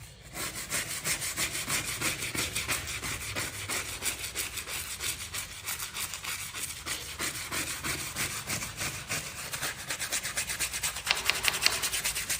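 Rapid back-and-forth scrubbing during cleaning, about five or six strokes a second, steady throughout and a little sharper near the end.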